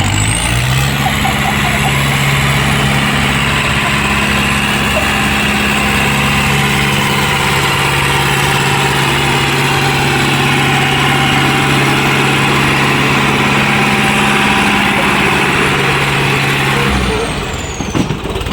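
Diesel tractor engine revving up and held at full throttle under pulling load for about sixteen seconds, then dropping back near the end.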